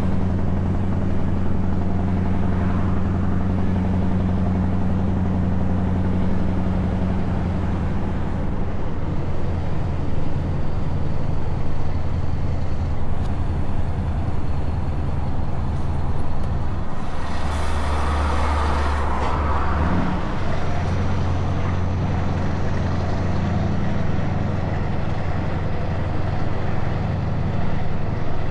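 Scania S truck engine running through open exhaust pipes while driving, a steady deep note. About two-thirds of the way through, the engine note drops for a couple of seconds and a short hiss of air is heard, then the note picks up again.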